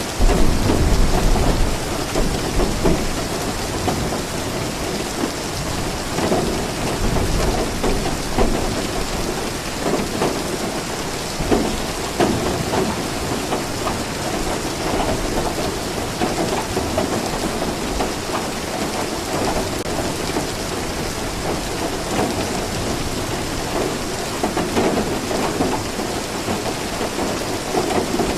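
Steady rain falling, with low rolling thunder underneath; the loudest rumble comes about a second in.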